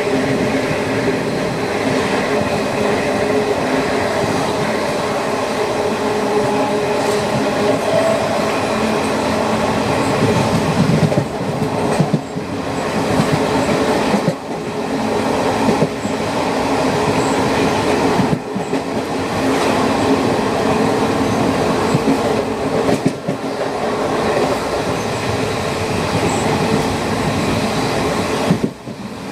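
Train running along the rails: a steady rumble with a droning tone, which briefly drops out several times.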